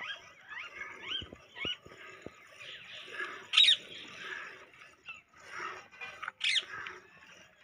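Birds chirping and calling, with a sharper, louder call about three and a half seconds in and another like it near the end.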